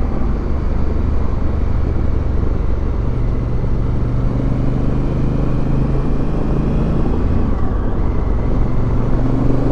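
Motorcycle running steadily at road speed while being ridden, its engine hum steady under a constant rush of noise.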